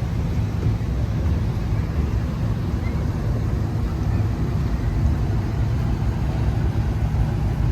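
Car engine idling with a steady, deep low rumble; the pitch holds without revving.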